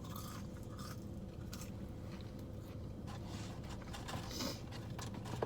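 A person chewing and biting French fries close to the microphone: soft wet mouth sounds and small irregular clicks, over a steady low hum.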